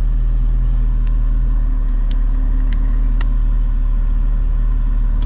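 Straight-piped C6 Corvette's 6.0-litre LS2 V8 idling with a steady, deep exhaust note, heard from inside the cabin. A few light clicks come about two to three seconds in.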